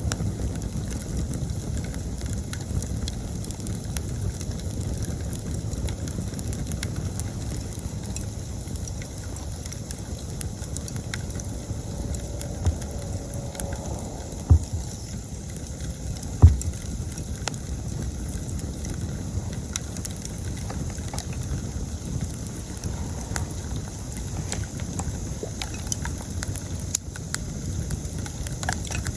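Wood campfire burning, with a steady low rumble and many small crackles, and three louder pops near the middle. Autumn insects chirp steadily in the background.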